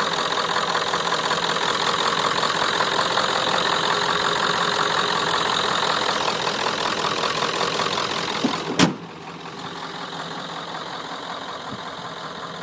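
Ford 7.3 L Powerstroke V8 turbo diesel idling steadily. About three-quarters of the way through there is one sharp knock, after which the engine carries on quieter.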